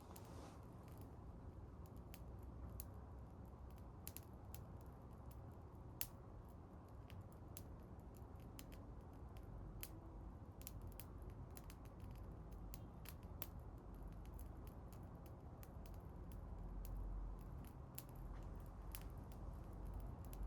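Wood bonfire crackling: irregular sharp pops and clicks over a low steady rumble, with one louder pop about six seconds in.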